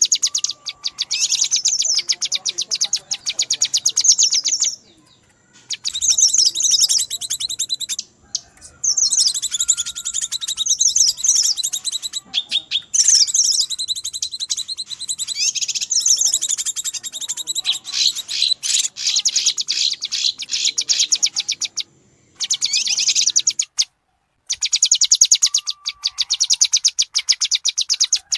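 Recorded cucak kinoi calls, agitated and noisy ('ribut'): fast runs of high, sharp chirps repeated many times a second in bouts of a few seconds, with short breaks between. This is a lure recording of the kind played to draw wild kinoi.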